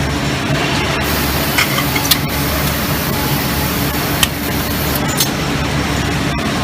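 Steady factory machinery hum from a robotic packaging cell, with a hiss like escaping compressed air from about one second in to about five seconds in, and a few sharp clicks.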